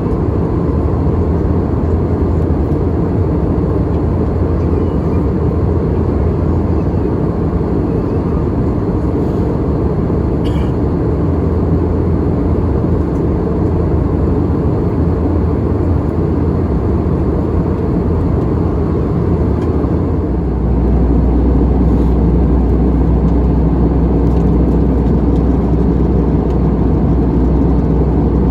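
Airbus A320-200 cabin noise: the steady rumble of the engines and airflow heard from inside the cabin. About twenty seconds in, the low hum deepens and grows slightly louder.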